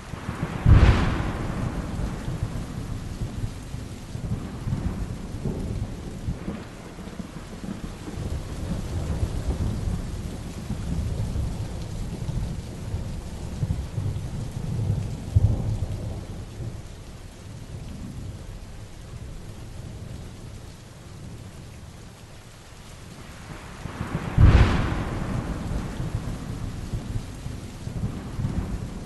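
Heavy rain falling steadily through a thunderstorm, with rumbling thunder throughout. Two sudden loud thunderclaps, one about a second in and one near the end, each rolling off over a couple of seconds.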